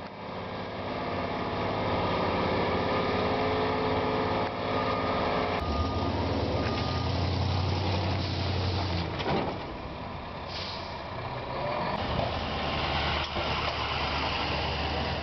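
Heavy truck engine running hard under load, its note shifting as it labours, with a brief knock about five and a half seconds in.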